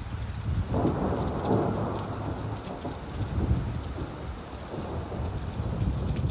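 Steady rain with a low rolling rumble of thunder that swells about a second in, then rumbles on more quietly.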